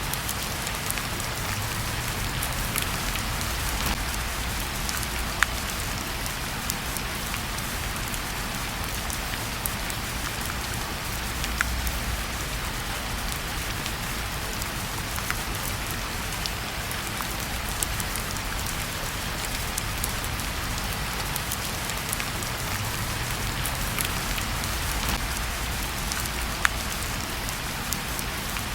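Steady rain falling, an even hiss with a low rumble underneath, broken by a few single sharp clicks or pops.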